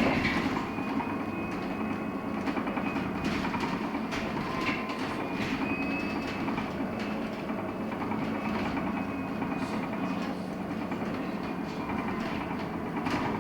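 Inside the cabin of a LiAZ-6274 electric bus under way: a steady hum and faint whine from the electric drive over road noise, with light rattles from the bodywork.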